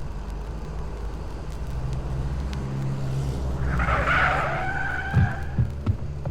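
Car engine running, then tyres skidding with a squeal for about a second and a half, followed by three short heavy thuds: a road-accident sound effect.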